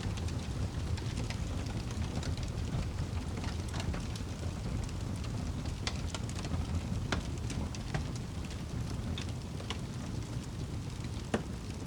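Wood fire burning in a fireplace, crackling: irregular sharp pops and snaps over a steady low rumble of the flames, with one louder pop near the end.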